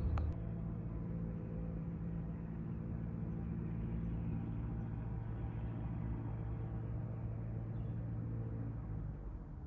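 A motor running steadily with a low, even hum, which drops away about nine seconds in. A couple of sharp clicks come right at the start.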